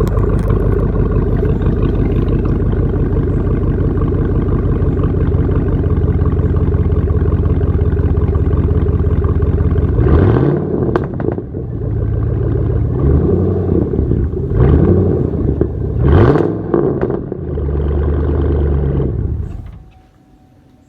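2005 Chevrolet Silverado's stock 5.3-litre Vortec V8 idling through straight pipes, then blipped in a series of short revs held to about 2,000 rpm, with a little popping and crackling from the exhaust. Near the end it holds one longer rev, then the sound drops away.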